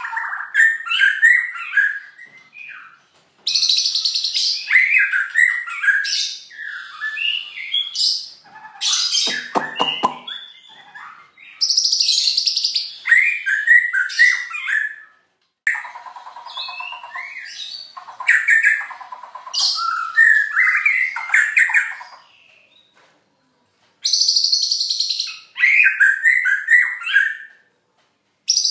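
A songbird singing in bursts of quick chirpy phrases with short pauses between them, several bursts being a high, dry buzzing trill. The bird has learned this insert from a golden grasshopper (belalang emas) and mimics its song.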